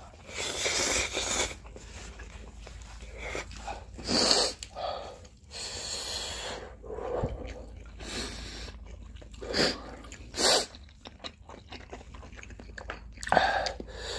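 People chewing mouthfuls of instant ramen noodles, broken several times by short, noisy breaths, sniffs and puffs: a reaction to the burn of very spicy Buldak hot-chicken noodles.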